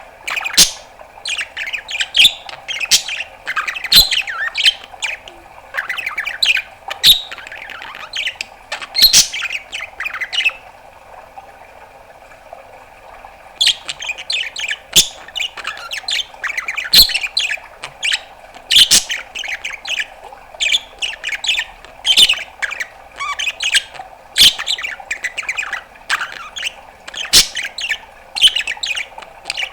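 Budgerigar chattering: a fast run of short chirps and squawks mixed with sharp pops, breaking off for about three seconds near the middle before starting again.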